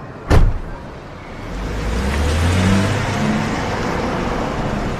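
A single sharp thump, then a car engine swelling in as the car drives past or pulls away, rising to a peak and holding steady.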